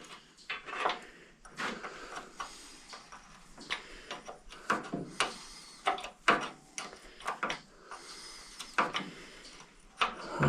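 Hand wrenches clinking and clicking on a nut and bolt as it is tightened: a run of irregular sharp metallic clicks and taps.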